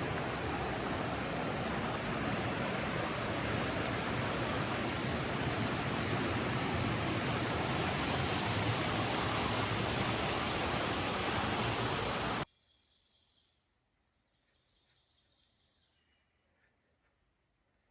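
Rushing water of a stream running high after heavy rain, a loud steady roar that cuts off abruptly about twelve seconds in. Near silence follows, with a faint high chirping.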